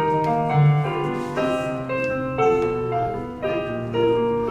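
Piano playing an instrumental passage of the song accompaniment between sung lines, with notes changing every fraction of a second and no voices.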